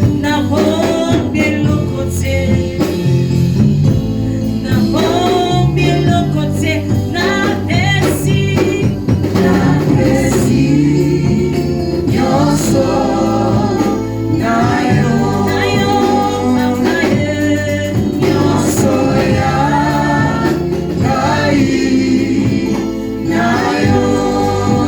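Gospel music: a group of voices singing over an instrumental accompaniment with a steady beat.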